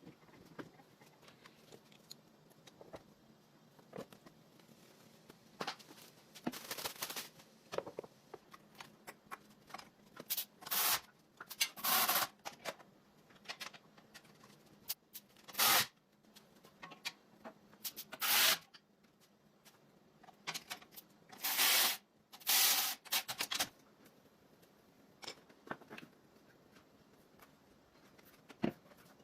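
A series of short, irregular rubbing or scraping sounds from hand work, each under a second long, with quiet gaps between.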